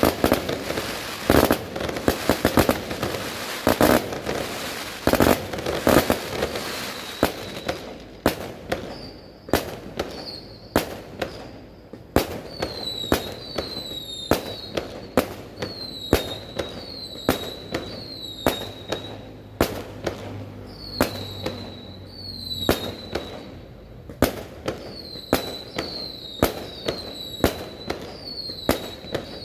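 Fireworks going off: a dense barrage of bangs and crackling at first, then a fast, regular string of sharp bangs, more than one a second, each followed by a short falling whistle.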